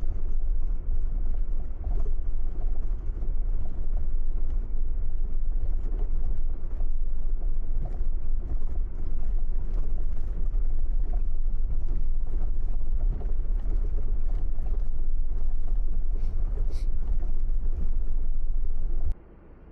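Steady low rumble of a car on the move, road and wind noise, with faint scattered ticks; it cuts off suddenly near the end.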